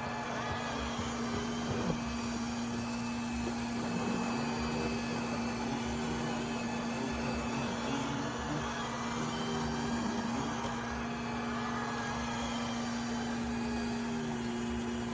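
iRobot Roomba Combo j7+ robot vacuum running, a steady motor hum with an even whir of suction and brushes.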